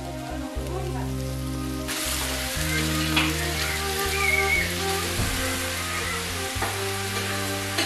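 Jiaozi dumplings sizzling in oil on an electric griddle pan, the sizzle starting abruptly about two seconds in. Background music with slow, held low notes plays throughout.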